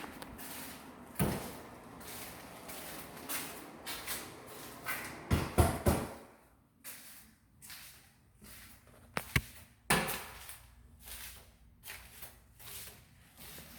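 Cabinet doors and drawers being opened and shut: a string of knocks and clunks, loudest about a second in, around five to six seconds in, and around ten seconds in.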